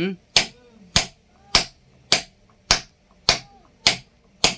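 Hammer driving a chisel into a grinding stone in a steady rhythm, about eight sharp strikes, one every 0.6 s or so, chipping a fresh pattern into the stone's worn grinding face to re-dress it.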